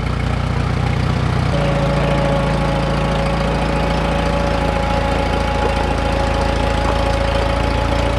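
An engine running steadily at idle; about a second and a half in its note shifts and a steady whine joins it.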